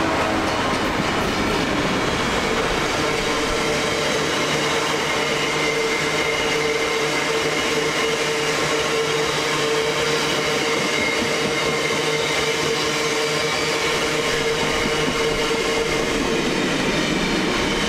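A freight train's rake of box wagons, hauled by a Class 66 diesel locomotive, rolling steadily past at speed. The wheels make an even running noise on the rails, with a steady hum held at one pitch throughout.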